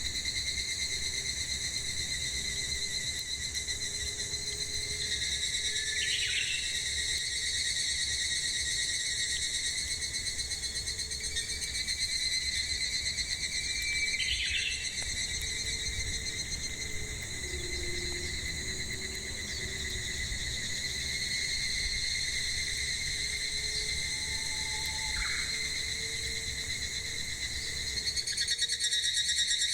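Cicadas droning steadily in a high, unbroken, finely pulsing chorus, with a few short bird calls about 6, 14 and 25 seconds in.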